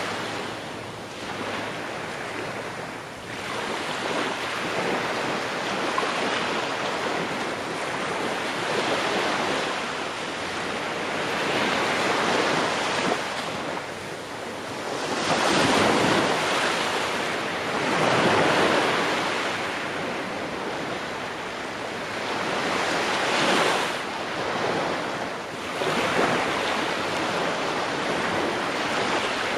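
Ocean waves breaking on a shore, surging and easing every few seconds, with stronger breakers about halfway through and again near the three-quarter mark.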